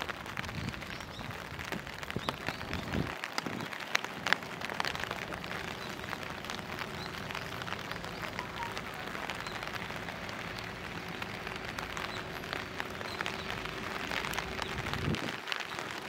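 Steady rain falling, with many single drops ticking irregularly over an even hiss of rainfall.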